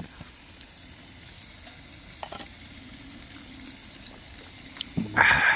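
Food frying on a pan over a camping stove, a steady low sizzle with a few light clicks, then a louder burst of sizzling near the end.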